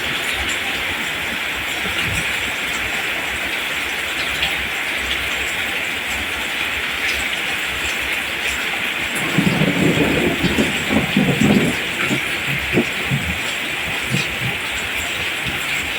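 Steady rain falling in an even hiss. A low, irregular rumbling rises under it for a few seconds past the middle.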